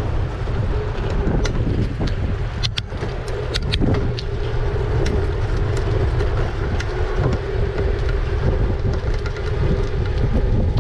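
Wind rumbling on the microphone of a moving e-bike, under a steady low hum, with a few sharp clicks about three seconds in.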